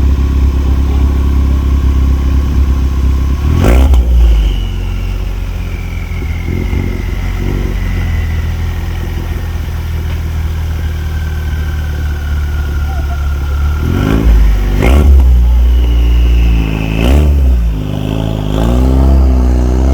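Car engine idling with a deep, steady exhaust note, blipped up in several short revs, a few near the end.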